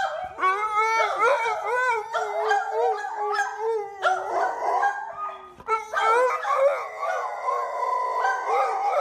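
Dogs howling: long, wavering howls that overlap one another, with a brief break about five and a half seconds in.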